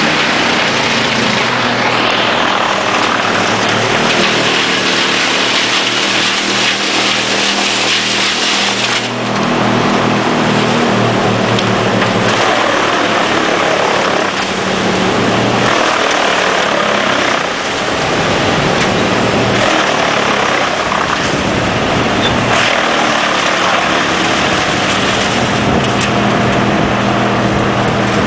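Erjo 9/93 forestry wood chipper running under load, a steady engine hum with a dense grinding hiss of wood being chipped. The hiss is strongest at first and eases about nine seconds in, with a few brief dips in loudness later.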